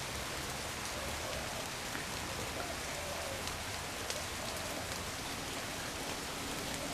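Steady rain falling, with a few single drops ticking out above the hiss.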